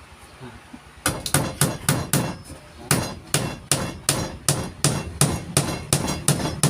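A hammer driving nails, struck in quick, steady blows about four a second, starting about a second in.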